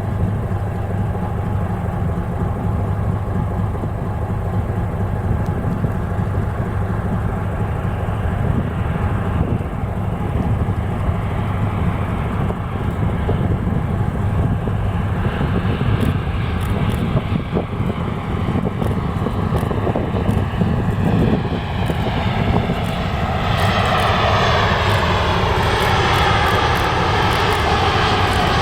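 Jet airliner on final approach, its engine noise building over the last few seconds with a whine that slowly falls in pitch. Under it runs the steady low hum of the fishing boat's engine.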